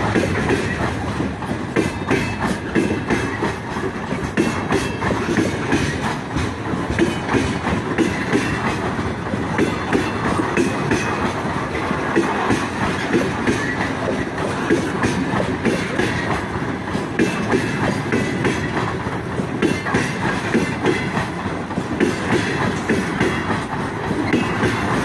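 Freight train of open-top gondola wagons rolling past close by: a steady rumble of wheels with repeated clickety-clack as the wheelsets cross the rail joints.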